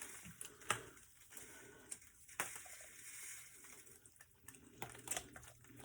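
Faint, scattered clicks and taps of a knife and hands working a raw whole bird that has been split down the middle on a cutting board.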